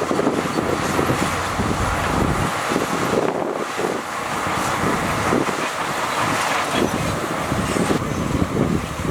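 Heavy diesel earthmoving machinery, a bulldozer or dump truck, running steadily with a continuous rumble.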